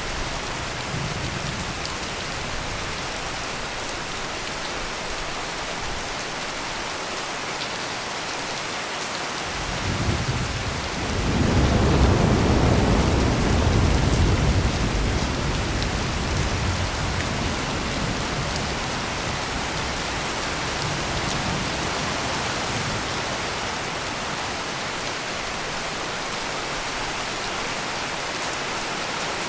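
Heavy rain falling steadily, with a long rumble of thunder that builds about a third of the way in, peaks and fades slowly.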